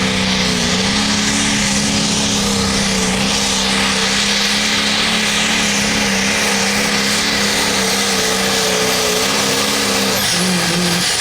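Hot Farm class pulling tractor's turbocharged diesel engine running flat out under load as it drags the weight sled: a loud, steady engine note over heavy noise. The note drops about ten seconds in.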